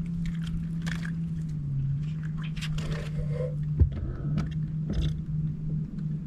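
Steady low hum of a boat motor running, with scattered clicks, scrapes and a sharper knock from gear being handled.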